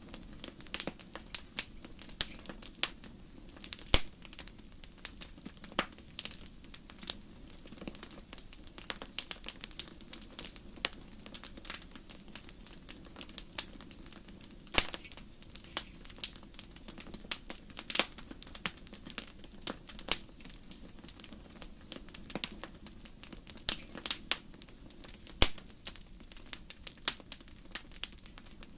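Wood fire crackling in a fireplace: irregular sharp pops and snaps, several a second, over a faint low steady background.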